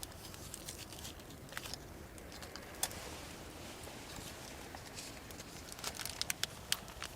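Wood campfire crackling, with irregular sharp pops and snaps over a low steady hiss, a quick run of them about six seconds in.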